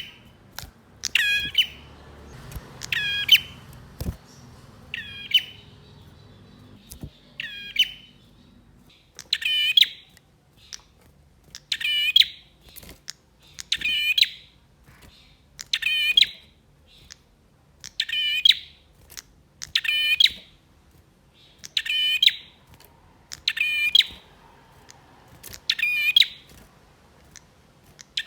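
Male prinia (prenjak) calling: a short, high, chattering note repeated about every two seconds.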